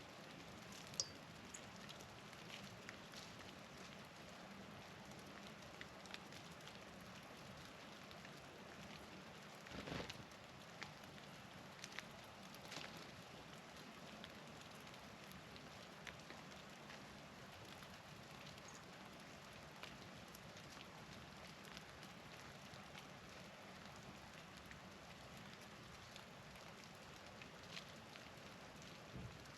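Near silence: a faint steady hiss with scattered light ticks and taps, the strongest about a second in and a small cluster about a third of the way through.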